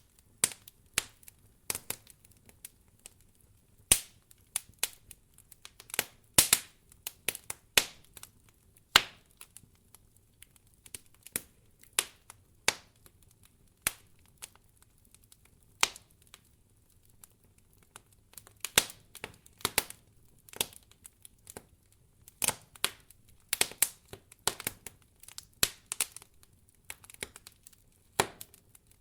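Wood fire crackling in a fireplace: irregular sharp pops and snaps, sometimes in quick clusters, with short quiet gaps between.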